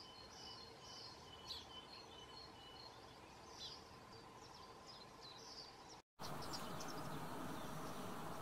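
Faint songbirds singing: a run of repeated high chirps with a few quick falling notes. About six seconds in, the sound drops out briefly and gives way to a louder, even hiss with a few more high chirps.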